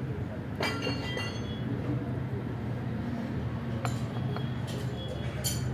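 Light metallic clinks and taps, a handful spread irregularly, as piston rings and small tools are handled during a ring check, over a steady low hum.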